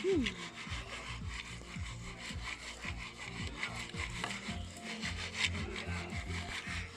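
Popcorn kernels beginning to pop in a pan over a fire pit: a run of small, rapid crackling pops and clicks.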